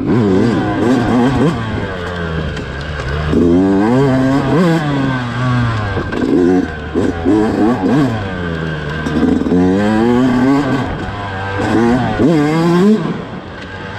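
2019 Yamaha YZ125 single-cylinder two-stroke engine revving on and off the throttle under riding load, its pitch rising and falling again and again.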